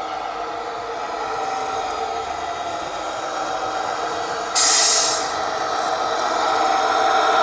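Tamiya Scania 770S radio-controlled truck running, with a steady engine-like drone of several tones. A short, loud hiss comes about four and a half seconds in, and the drone grows louder toward the end.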